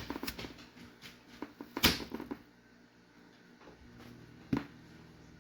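Kitchen knife cutting a piece off an apple: a run of irregular clicks and knocks, the loudest about two seconds in, and one more sharp knock near the end.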